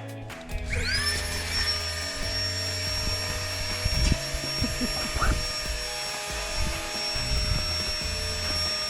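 A small motor starts, its whine rising in pitch about a second in and then running at a steady pitch, with a few knocks along with it.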